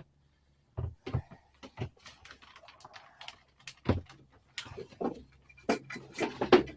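A run of irregular knocks and clatters, about a dozen short strokes, coming closer together and louder near the end.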